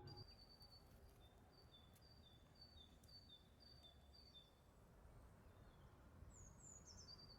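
Faint birdsong over near silence: a two-note phrase, high then a little lower, repeated about twice a second, then a few higher falling notes near the end.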